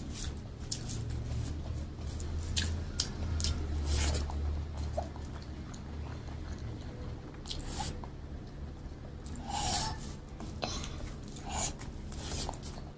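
Close-miked eating sounds of rice and mashed vegetables eaten by hand: chewing with scattered wet mouth smacks and clicks.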